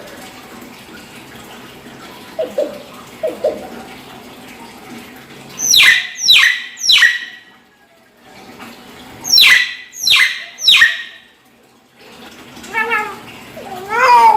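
A hill myna giving loud, shrill, downward-sweeping calls in two bursts of three, about six and nine and a half seconds in. Near the end it makes short voice-like sounds.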